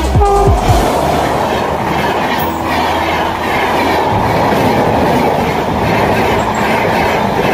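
Passenger train coaches passing close by at speed: a loud, steady rush of wheels running on the rails.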